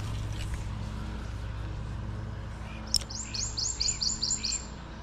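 A songbird sings a quick trill of about eight high notes, each falling in pitch, just after a sharp chip about three seconds in. A steady low background runs underneath.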